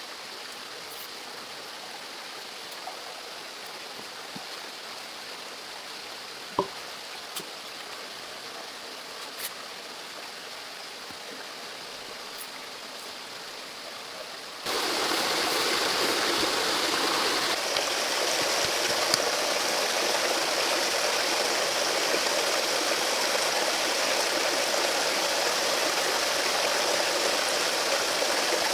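Steady rushing of flowing stream water that jumps abruptly louder about halfway through, with a few faint clicks in the quieter first half.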